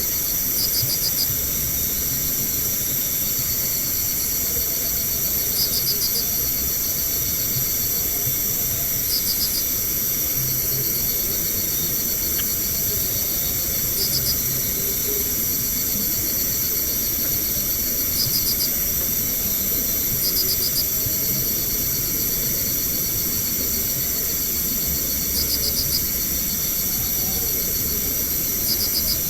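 Night insect chorus, crickets among them: a steady high-pitched drone, with a short pulsed chirp repeating every few seconds, over a constant hiss and low rumble.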